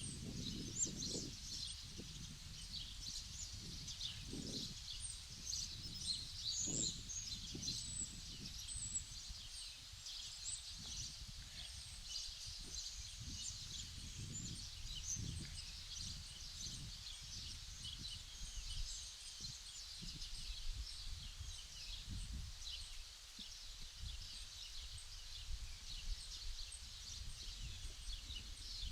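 Outdoor ambience of many small birds chirping and twittering in a dense, continuous chorus, over an uneven low rumble with soft irregular thuds.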